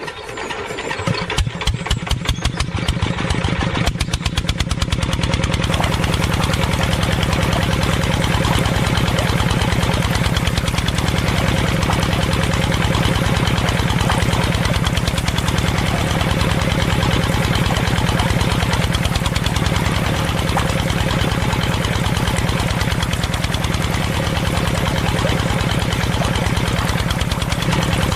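Small engine starting and settling into a steady run. Its firing pulses speed up and grow louder over the first few seconds, then hold an even idle.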